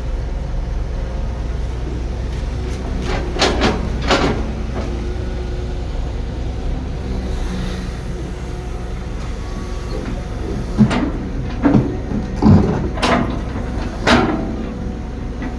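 Heavy construction machinery with its diesel engine running steadily, with several sharp metallic clanks: a few about three to four seconds in and a cluster near the end.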